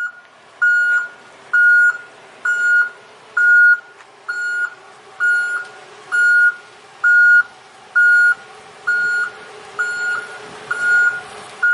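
An electronic beeper sounding one steady high tone over and over, about once a second, thirteen beeps in a row.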